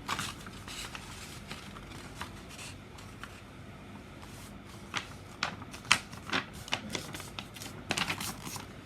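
A sheet of paper being folded and creased by hand: crisp rustles and sharp snapping strokes, sparse at first and coming in quick clusters in the second half.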